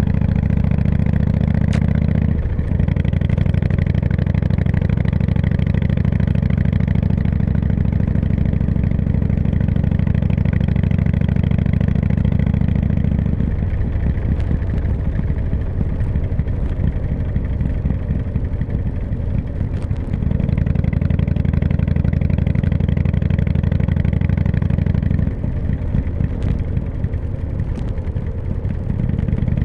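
Harley-Davidson V-twin motorcycle engine running steadily while riding, its note shifting a few times along the way.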